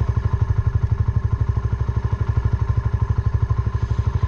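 Suzuki Van Van 125's single-cylinder four-stroke engine running at low revs through its aftermarket full exhaust, a steady even thumping of about nine beats a second.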